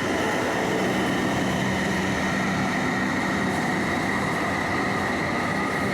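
London Underground 1996 Stock Jubilee line train running steadily through a tunnel, heard from inside the carriage: a steady rumble of the running gear with a constant high whine from the traction motors.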